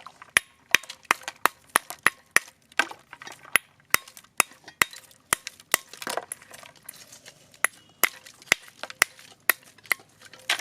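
Block ice being broken up with repeated sharp, hard knocks, about three a second.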